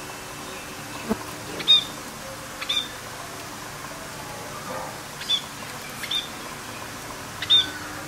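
Budgerigars chirping: about five short, sharp chirps scattered over a steady background hiss.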